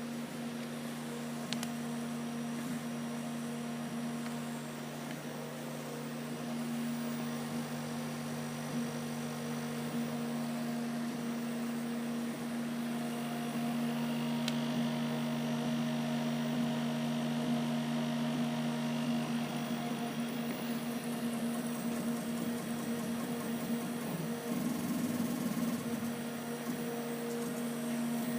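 Kamach 1290 CO2 laser cutting machine running during a test: a steady hum with a couple of faint ticks.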